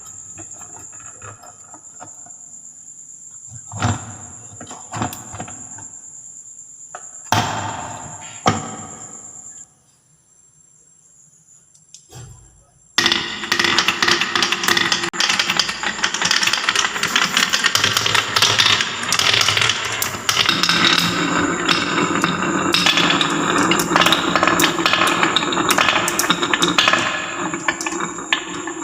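Balls rolling and knocking down a wooden marble run. At first there are a few separate knocks, then a short near-quiet pause. A little before halfway a dense, continuous clatter of many balls starts and runs on.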